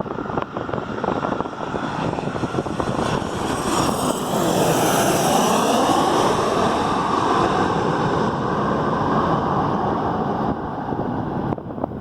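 Airplane passing close by at the airport, its engine noise swelling to a peak about four seconds in, with a sweeping shift in pitch as it goes past, then easing off near the end.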